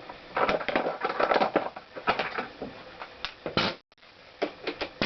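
Irregular metallic clicks and rattles of hand tools and engine parts being handled while the flywheel is worked loose on a Honda CX500 engine, with a brief break partway through.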